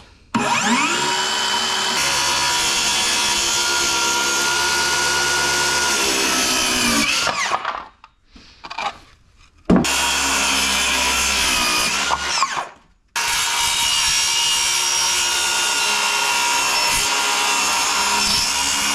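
Electric power tool working wood in three long runs, its motor pitch rising as it spins up at the start of each and falling as it winds down, with short pauses between.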